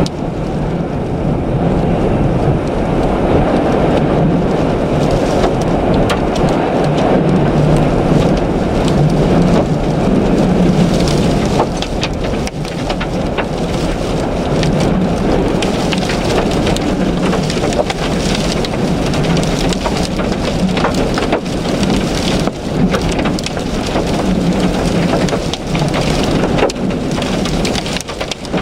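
Storm-force wind buffeting a moving car, a loud, dense rush with a low hum of the car underneath. From about twelve seconds in, many small sharp ticks patter against the car.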